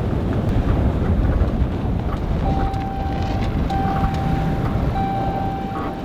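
Low, steady vehicle rumble. About two and a half seconds in, a steady tone joins it and repeats in stretches of just over a second, with short breaks between them.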